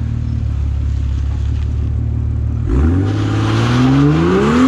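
Car engine idling with a low, steady rumble, then revving up about halfway through, its pitch climbing steadily toward the end.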